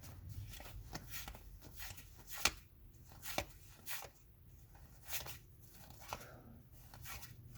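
1991-92 SkyBox basketball cards being flipped through one at a time by hand: a run of light card snaps and slides, roughly two a second, the sharpest about two and a half seconds in.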